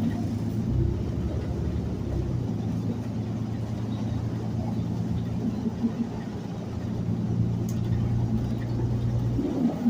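City transit bus running, heard from inside the bus as a steady low engine drone with a hum that drops away near the end.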